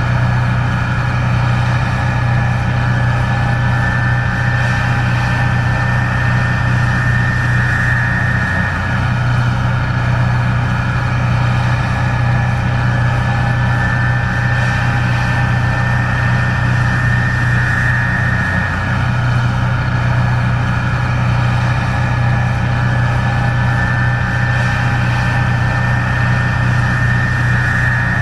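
Case IH 1660 Axial-Flow combine running steadily while harvesting corn: a constant low diesel hum with a high machinery whine over it. The low hum dips briefly about every ten seconds.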